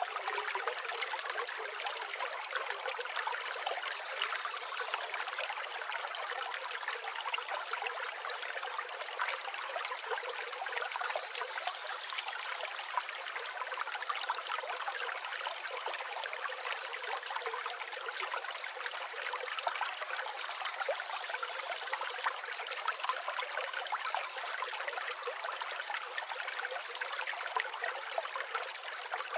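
River water flowing steadily, an even rushing and trickling with no low rumble. A few faint, short high bird calls come through it now and then.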